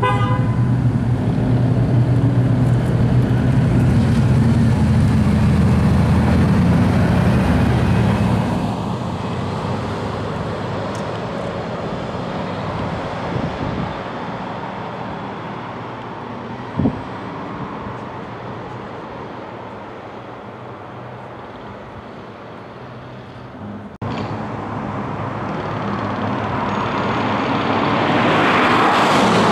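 Two Bugatti Veyron 16.4s with quad-turbocharged 8.0-litre W16 engines, running loudly, then fading steadily as the cars drive away, with a brief sharp noise about halfway through. After a sudden cut, the engines grow louder again as the cars approach and pass near the end.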